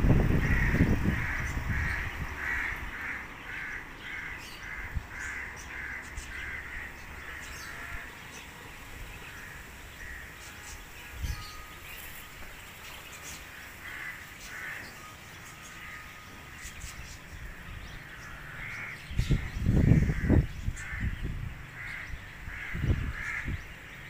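A bird, likely a crow, calls in runs of short, evenly spaced notes, about two a second, through the first several seconds and again later. Loud low rumbling bursts come at the start and again near the end.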